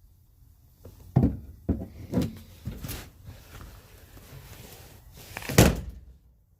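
Knocks and rattles of items being moved about in a boat's storage compartment, several spread over the first few seconds, then one loud thud of a hatch lid near the end.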